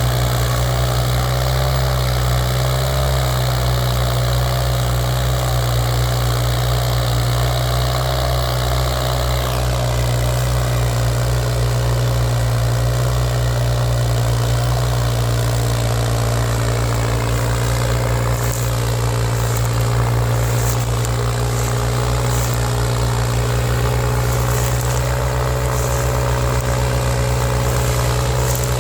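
New Holland 3630 tractor's diesel engine idling steadily.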